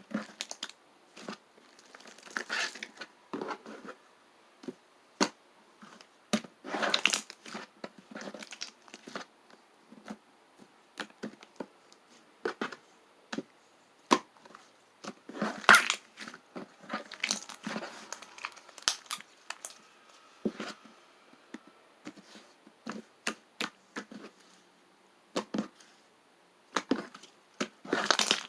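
Irregular crinkling and crackling of something being handled close by, in short bursts with brief pauses between them.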